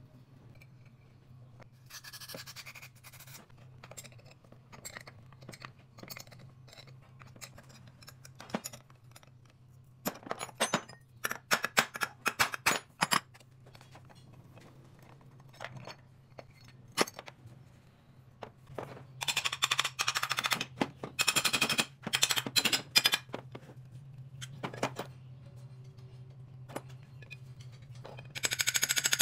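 Impact wrench rattling in four bursts of one to four seconds, with single clinks of tools on metal between them and a steady low hum underneath.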